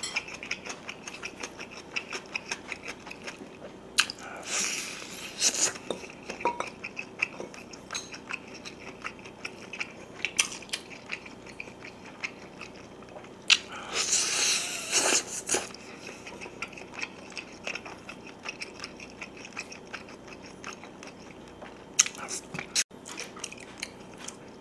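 Close-miked biting and chewing as soy-sauce braised pork back ribs are eaten off the bone, a steady run of wet mouth clicks. Two longer, louder stretches come about four and fourteen seconds in, and a few sharp clicks near the end.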